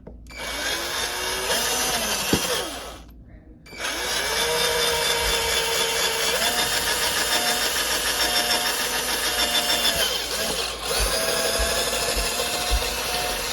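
Power drill running in three long spells with short pauses between, boring new mounting holes that didn't line up; its motor pitch steps up partway through the middle spell.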